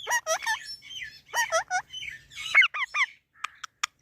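Pet parrot squawking: short, sharp, hooked calls in quick groups of about three, followed by a few sharp clicks near the end.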